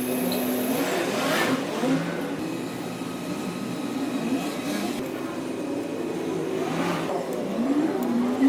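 Yanmar B10's diesel engine running, its speed rising and falling several times.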